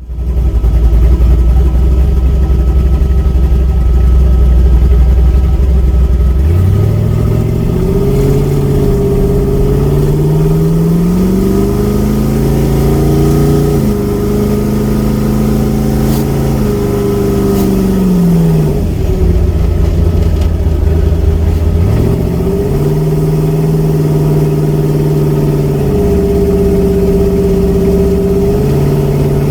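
Car engine running, low and steady at first, then revved up and down in several slow sweeps and held at a higher speed near the end. It is leaking coolant at the water pump gasket, which the owner finds blown out.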